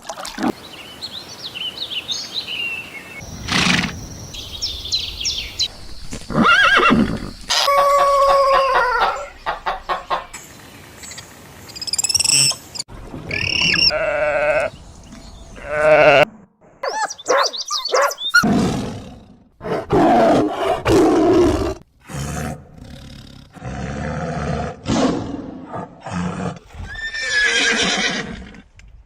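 A rapid series of different animal calls, livestock among them, each lasting a second or two and cut sharply into the next.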